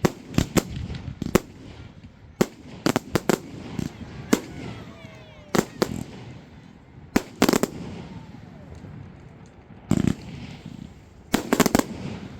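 Fireworks display: sharp bangs of shells bursting at irregular intervals, some single and some in quick clusters of three or four, about a dozen in all.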